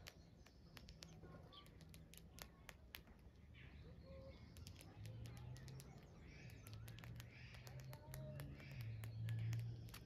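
Faint birds chirping and calling, with many scattered sharp clicks. A low hum swells near the end and is the loudest sound.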